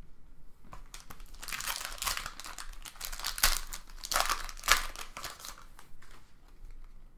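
Foil trading-card pack wrapper crinkling as it is handled, in a run of rough crackly bursts that is loudest in the middle and dies away near the end.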